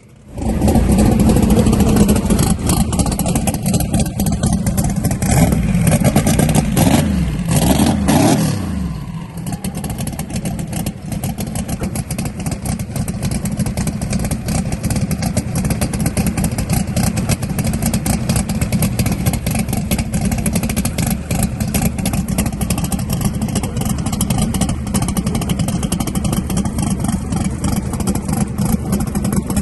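Race car engines running hard and revving for about the first nine seconds, the revs falling away near the end of that stretch. After that, a steadier, rough-running engine sound continues with a fast crackle.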